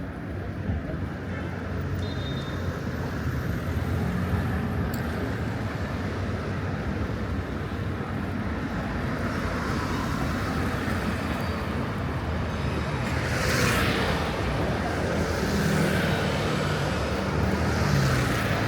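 Road traffic on a busy city street: a steady hum of car engines, with vehicles swelling past a few times in the second half.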